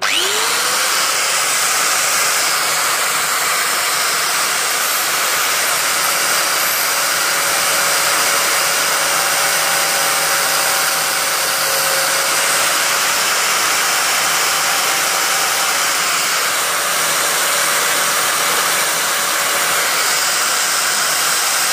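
Handheld electric sanding machine switched on, its motor whining up to speed, then running steadily as it sands the sharp edges off a dried guava-wood branch.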